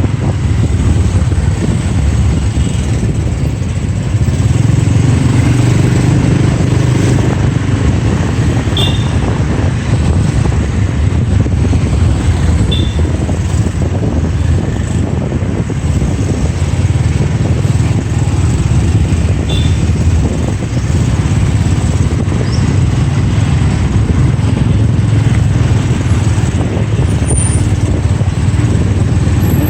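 Motorbike taxi heard from on board while riding through city traffic: a steady low engine and road rumble with wind rush. A few short high chirps come through over it.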